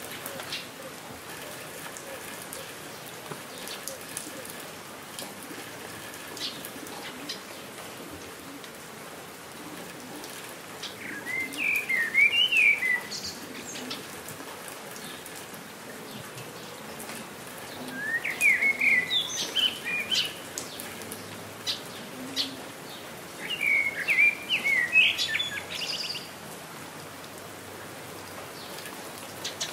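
Steady rain falling, with scattered drops ticking. A songbird sings three short warbling phrases of about two seconds each, the first about eleven seconds in and the others at intervals of roughly six seconds.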